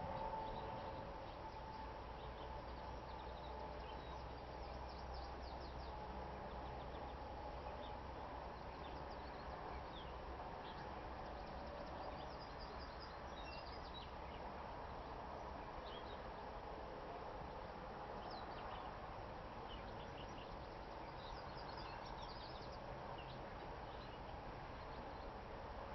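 Outdoor ambience: scattered short, high bird chirps over a faint, steady low rumble.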